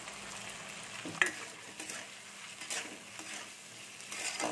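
Potatoes and sliced onions sizzling in hot oil in a metal kadai while a metal spatula stirs and scrapes them, with a sharp clink of spatula on pan about a second in and a few lighter scrapes after.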